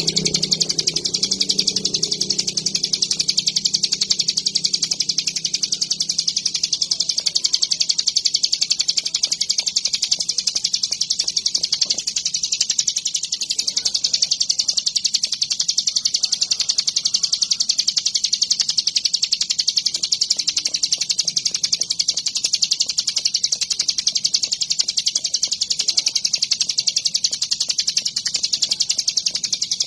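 Ciblek gunung, a prinia, singing vigorously in a fast, unbroken stream of high chirps that runs on without pause.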